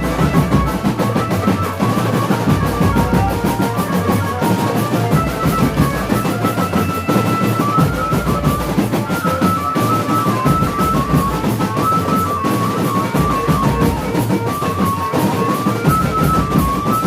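Marching drum band playing: a steady beat of bass and snare drums with rolls, under a melody of short stepping notes.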